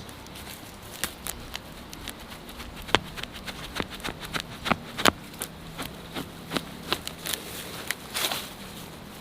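Irregular sharp clicks and knocks, several a second at times, the loudest about three and five seconds in.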